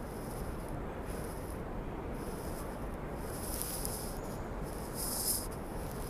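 Steady outdoor background noise with patches of high hissing, the strongest about three and a half and five seconds in.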